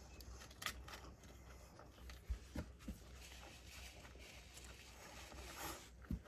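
Faint eating sounds: a person chewing food, with a few short sharp clicks and soft rustling.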